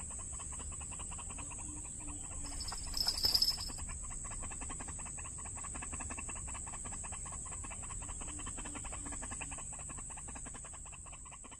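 White-breasted waterhen (ruak-ruak) calling: a rapid, dense run of clucking, croaking notes, with a louder burst about three seconds in, under a steady high whine. The sound fades near the end.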